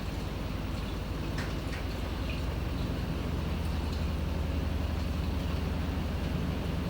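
Panasonic NA-FA100H9 fully automatic washing machine running mid-cycle: a steady low motor and drum drone that grows a little louder about three seconds in, with a few faint light clicks.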